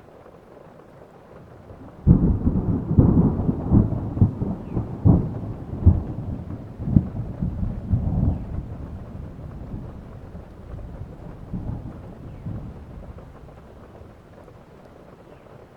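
A thunderclap over steady rain. It breaks suddenly about two seconds in as a loud crack, then rolls on as a crackling rumble with several sharp peaks, fading away over about ten seconds.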